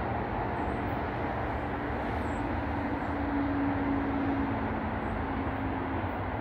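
Steady distant rumble of an approaching diesel-hauled freight train, with a low drone that swells slightly through the middle and then eases.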